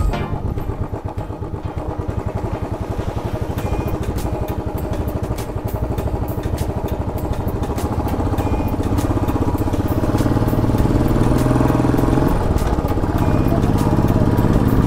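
Royal Enfield Classic 500's single-cylinder engine running at low riding speed on a rough gravel road, pulsing evenly and getting louder in the second half, with occasional short clicks.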